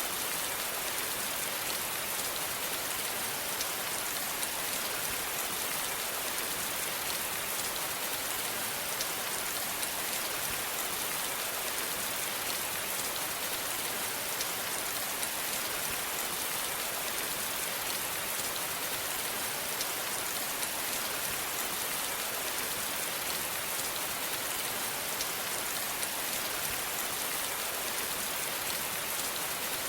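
Steady rain falling, an even hiss with the patter of many drops on a surface, unchanging throughout.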